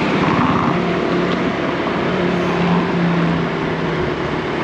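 Honda Click 160 scooter under way: its single-cylinder engine running steadily under a constant rushing noise.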